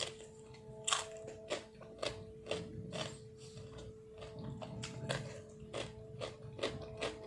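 Close-up chewing with wet mouth clicks and smacks at an irregular pace, about two a second, over a steady faint hum.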